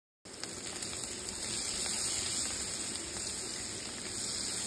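Sliced sausage and onions sizzling in hot oil in a frying pan, a steady hiss that cuts in abruptly a moment in.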